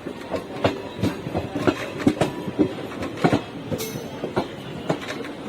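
Gujarat Superfast Express passenger coaches running on the rails, wheels clattering in quick, irregular clicks and knocks over rail joints, with a brief high squeak about two-thirds through.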